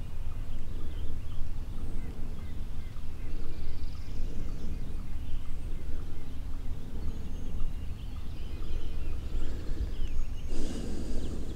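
Wild turkey gobbler gobbling once near the end, over a steady low background rumble, with small birds chirping faintly.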